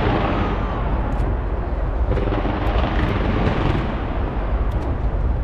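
Close-range fireworks display fired from a skyscraper: a continuous low rumble of many launches and bursts running together, with scattered sharp crackles.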